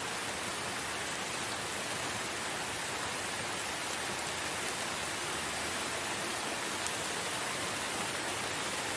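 Steady rainfall, an even hiss with no distinct drops or thunder.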